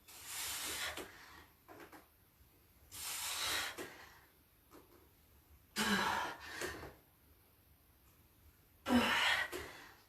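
A person breathing out hard with exertion during bodyweight exercise. There are four forceful, hissing exhalations about three seconds apart, and the last two carry a slight voiced grunt.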